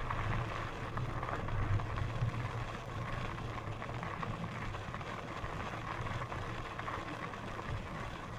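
Steady low rumble of riding noise from a Lectric XPEAK 2 e-bike in motion, with a faint even hum above it.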